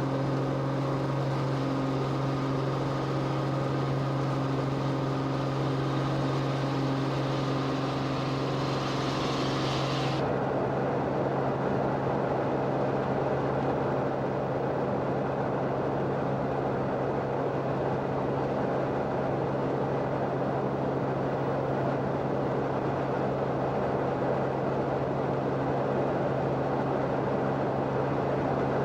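Steady engine drone of an aircraft heard from inside the cabin, a constant low hum with overtones. About ten seconds in it turns duller and noisier, losing its high end.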